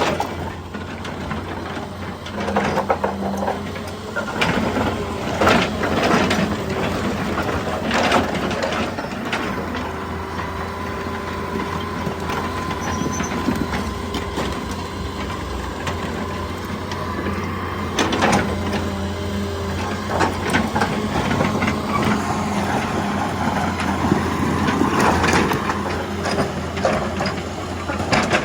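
Excavator's diesel engine running steadily under load, with irregular knocks and scrapes of rock and a faint steady whine through the middle.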